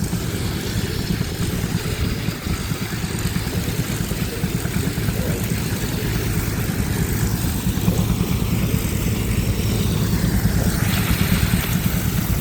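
Engine running steadily at an even speed, a low pulsing drone that holds throughout.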